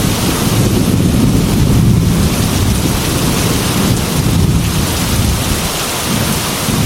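Heavy rain falling steadily, with a low, continuous thunder rumble underneath that eases slightly near the end.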